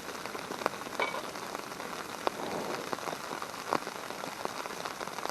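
Bologna frying in a small pan: a steady sizzling hiss with irregular sharp pops.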